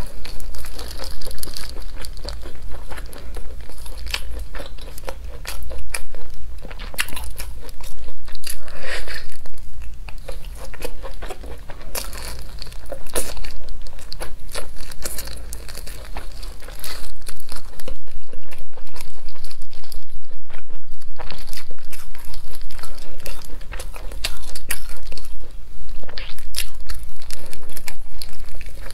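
Close-miked biting and chewing of chili-sauced chicken, with many crisp crunches and crackles and a steady chewing rhythm in the last third.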